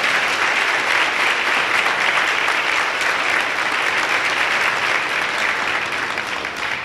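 Audience applauding after an orchestra piece, a dense steady clapping that thins out near the end.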